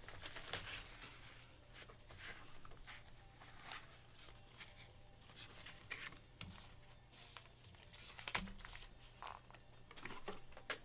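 Faint crinkling and tearing of foil trading-card pack wrappers being opened and handled, in short scattered crackles.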